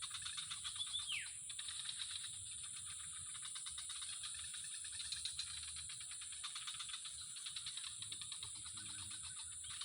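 Outdoor animal chorus: a rapid pulsing trill over a steady high buzz, with one sharply falling whistle about a second in.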